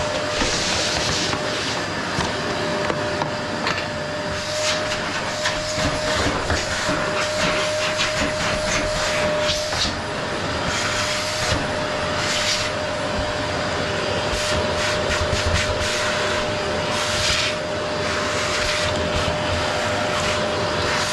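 Qilive vacuum cleaner running, with a steady motor whine under a rushing hiss. The hiss swells and fades every few seconds as the nozzle is pushed back and forth, with scattered light clicks.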